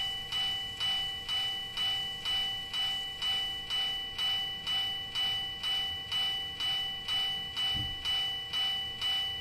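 Japanese-style railway level-crossing warning bell ringing in an even clang about twice a second, each strike ringing on before the next. A brief low thud comes near the end.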